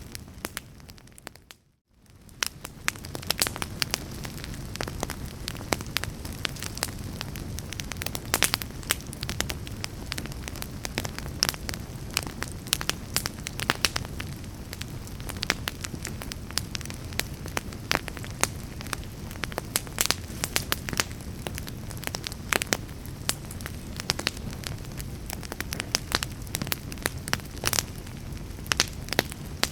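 Fire in a fireplace crackling, with frequent sharp pops over a steady low rumble. The sound fades out to near silence about a second in and fades back in shortly after.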